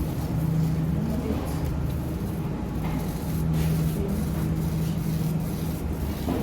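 Steady low mechanical hum of a supermarket's background noise, with faint indistinct sounds over it.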